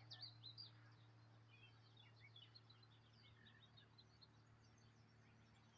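Faint high-pitched chirping and twittering of small songbirds, many quick notes, loudest at the start, over a steady low hum.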